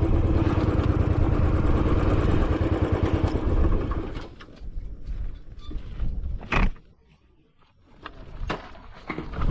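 Royal Enfield Classic 500 single-cylinder motorcycle engine running steadily, then switched off about four seconds in. After it stops come a few light clicks and one sharp knock.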